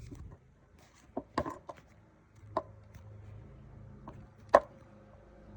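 Tools and metal parts being handled on a workbench: a few separate knocks and clinks, the loudest about four and a half seconds in, followed by a brief metallic ring.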